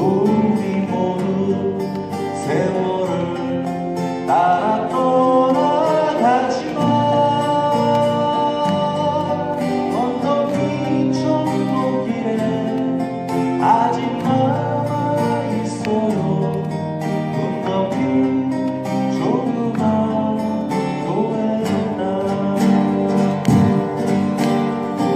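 Acoustic guitars playing the instrumental break of a slow Korean ballad: a melody line over held chords.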